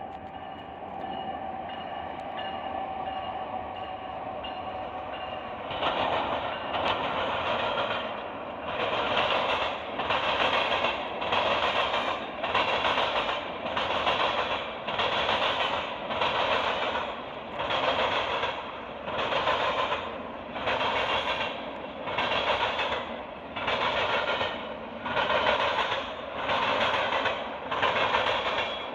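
A train passing close by. For the first few seconds there is a steady sound with a few held tones. From about six seconds in, a loud, even pulsing comes about once a second as the rail cars roll past.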